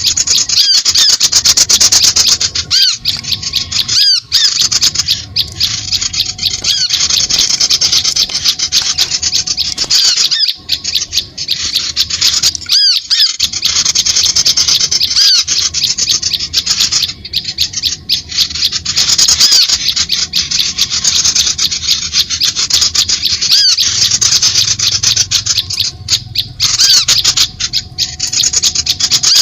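Bird-lure recording of small birds calling: a dense, rapid stream of high, squeaky chirps and twitters that keeps going with only a few brief breaks.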